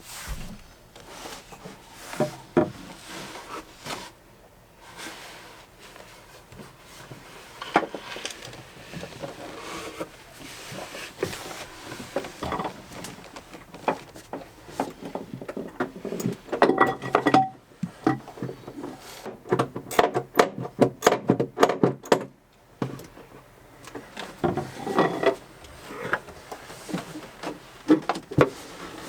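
Irregular knocking, clicking and clattering of gear and tools being handled and moved about in a small boat cabin, with a dense run of rattling knocks partway through.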